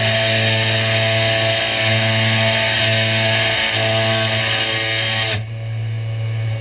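Background guitar music over the steady running of a CNC 3018 router's spindle milling cardboard. The high cutting hiss drops away abruptly about five seconds in.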